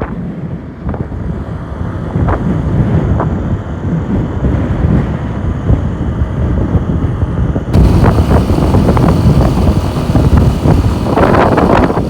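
Wind buffeting the microphone of a moving motorcycle: a loud, steady low rumble. It turns louder and hissier about two-thirds of the way through.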